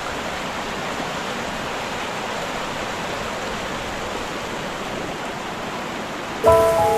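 Steady rushing of stream water. Music comes in near the end.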